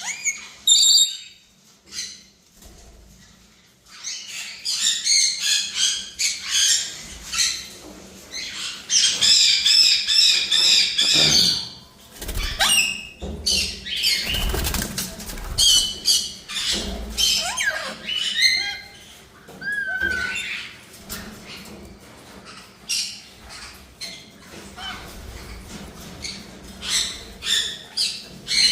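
Birds calling in quick, repeated high-pitched chirps and squawks, mixed with wing flapping that is busiest around the middle.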